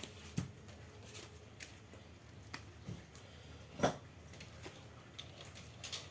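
Scattered light clicks and knocks, with one louder knock about four seconds in.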